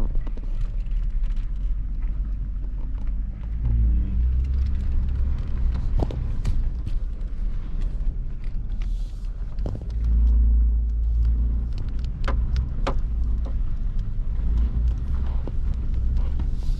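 A truck driving slowly over a rough gravel forest road, heard from inside the cab: a steady low engine and road rumble that swells a few times, with scattered knocks and rattles from bumps.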